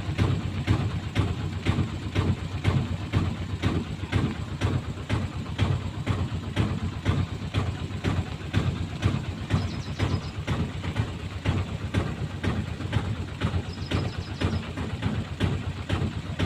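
An engine running steadily with an even, low-pitched pulse several times a second.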